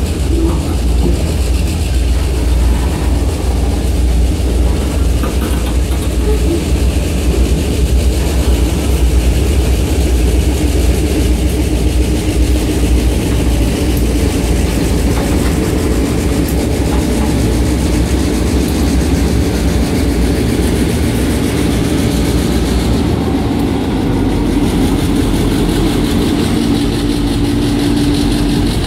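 Freight train of covered hopper cars rolling slowly over a grade crossing, a steady heavy low rumble from the wheels on the rails. It is shoved from behind by A&R #300's diesel locomotive, whose engine drone grows more prominent over the second half as the locomotive nears.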